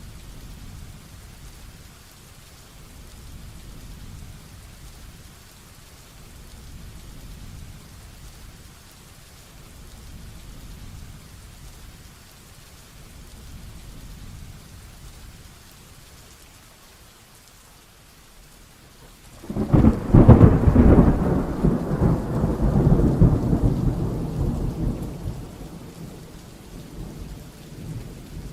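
Heavy rain falling steadily, with a low rumble that swells and eases every few seconds. About two-thirds of the way through, a sudden loud thunderclap breaks in and rolls on, dying away over several seconds.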